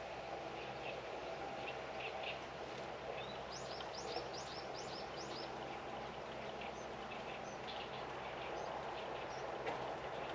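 Small birds calling over a steady low mechanical hum, with one quick run of about eight high, down-slurred notes a few seconds in and scattered short chirps after it.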